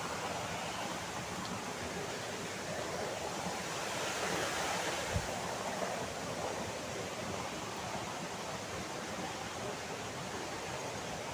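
Steady, even rushing of the Saltão waterfall's falling water, with a single soft low thump about five seconds in.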